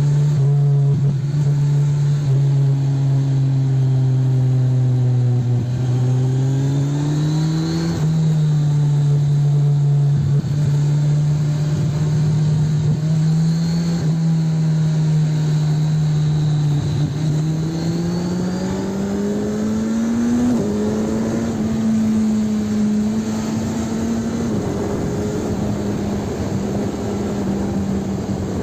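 Kawasaki Ninja 1000 SX inline-four engine running through an Arrow aftermarket exhaust while being ridden on the road. It holds a steady note, and twice the pitch climbs under acceleration, then drops sharply at a gear change.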